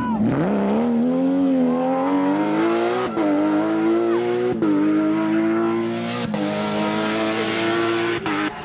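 Porsche competition car's engine pulling hard under acceleration. Its pitch climbs and then drops sharply at each of four gear changes, the first about three seconds in and the rest every second and a half or so.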